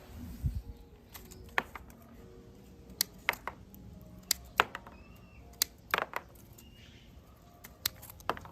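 Scissors snipping the stems of thorny wild Cherokee rose hips: about a dozen sharp clicks at irregular intervals, some in quick pairs. There is a brief low rumble at the start.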